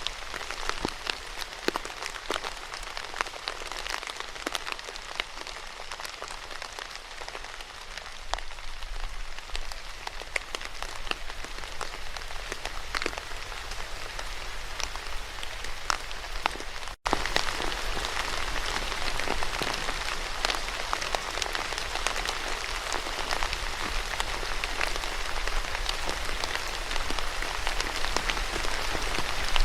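Steady rain with many individual drops striking close by. About 17 s in it cuts out for an instant, then comes back louder and denser.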